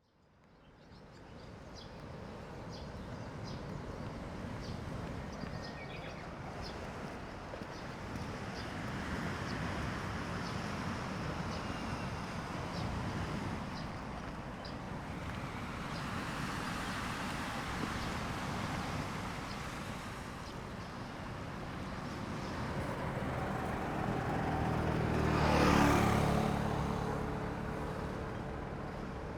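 Road traffic passing along a seaside road, a steady wash of tyre and engine noise. One vehicle passes close, loudest a few seconds before the end.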